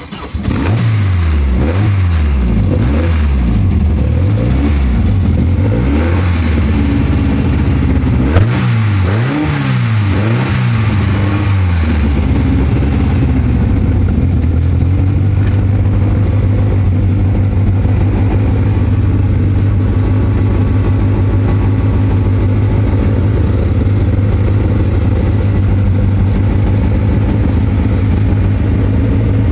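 Caterham 7 engine catching on a cold start and being blipped up and down for about twelve seconds, with one sharp crack about eight seconds in, then settling into a steady idle.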